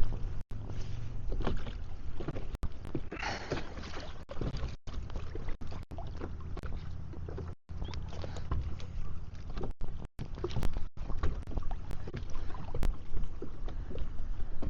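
Ambience on a fishing kayak: a steady low wind rumble on the microphone with scattered small knocks and clicks. The sound drops out completely for an instant several times.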